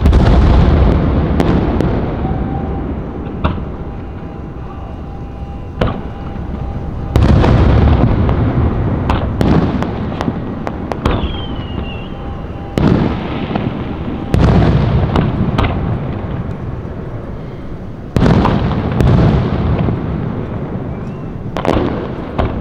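Fireworks exploding: about four heavy booms, each followed by a long fading rumble, with sharper single cracks in between and a brief falling whistle near the middle.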